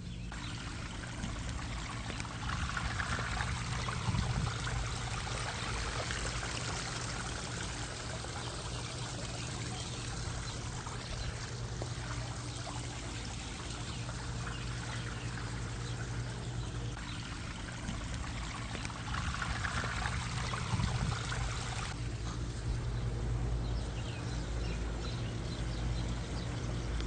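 Backyard pond waterfall and fountain splashing and trickling steadily, with a low steady hum underneath.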